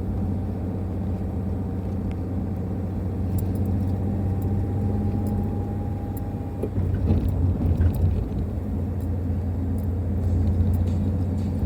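Car driving: steady low engine and road rumble, turning rougher and more uneven about seven seconds in.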